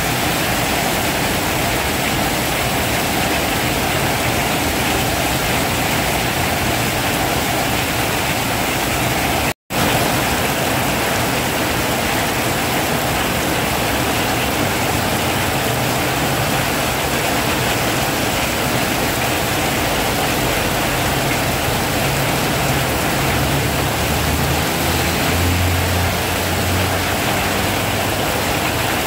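Heavy rain pouring down, a dense, steady hiss. It cuts out for a split second about ten seconds in, and a low hum rises beneath it near the end.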